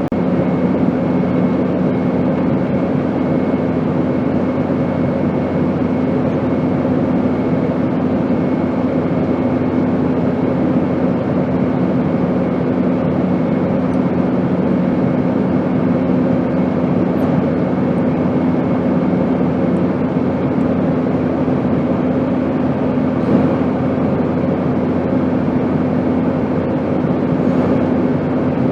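Steady airplane noise: an even rushing hiss with a constant low hum underneath. One of the low hum tones fades out about two-thirds of the way through.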